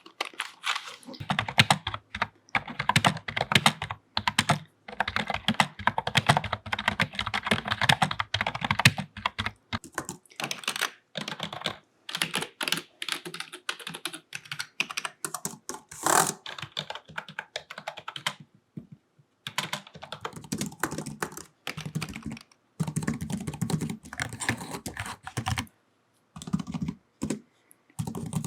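Typing on a computer keyboard: fast runs of keystroke clicks broken by short pauses, the longest about two-thirds of the way through and another near the end.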